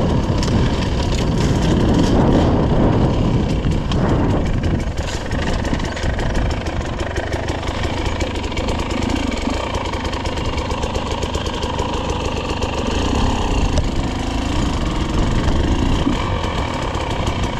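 Dirt bike engine running continuously as it is ridden along a trail, the throttle shifting up and down.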